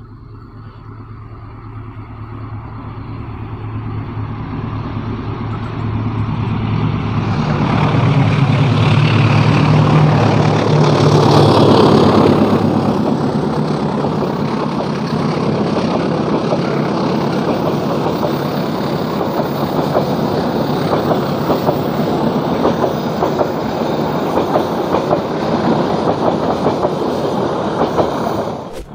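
Diesel-hauled passenger train approaching and passing close by: the locomotive's engine hum grows steadily louder and peaks about ten to twelve seconds in. The coaches then roll past over the bridge with a steady rumble and rapid wheel clatter, cut off abruptly near the end.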